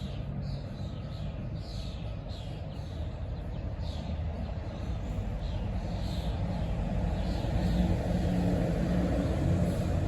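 A bird giving short, falling chirps over and over, over a steady low rumble of traffic that grows louder in the second half.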